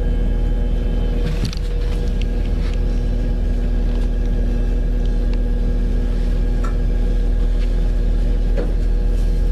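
Diesel multiple-unit train running steadily, a deep rumble with a constant engine hum, and a few light clicks.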